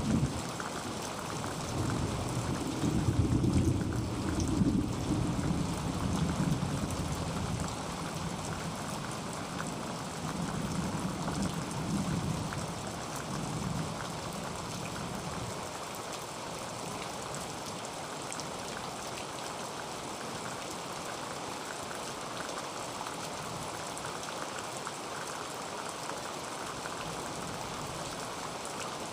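Heavy rain drumming steadily on a tin roof. A low rumble of thunder rolls through the first half, swelling twice and dying away about halfway through.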